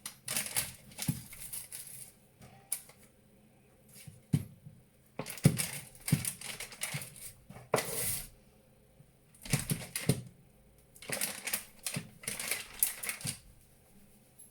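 Kitchen work on a block of lard: a knife and utensils clicking, tapping and scraping in four bursts of rapid taps, with short pauses between.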